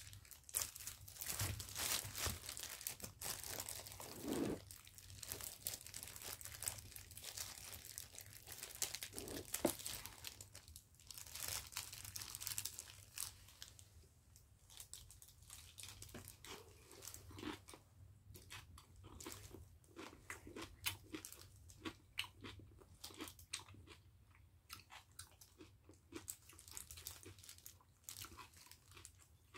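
Close-up chewing of kimjang kimchi (fermented napa cabbage), crunching bite after bite. It is louder in the first dozen seconds, then softer and more spaced.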